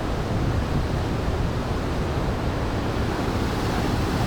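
A large waterfall pouring, a loud, steady rushing noise heaviest in the low end.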